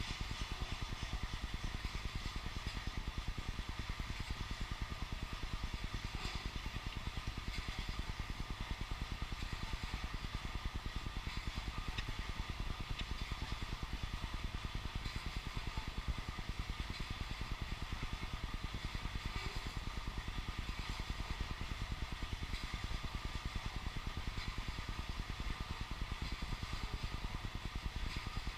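Freight train of oil tank cars rolling past: a steady rumble with continuous clatter of wheels on the rails.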